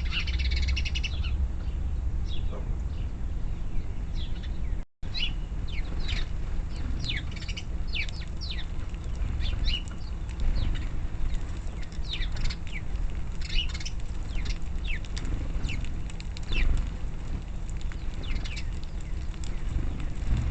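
Backyard songbirds chirping, many short quick chirps that slide downward in pitch, with a fast trill at the very start, over a steady low rumble. The sound cuts out for an instant about five seconds in.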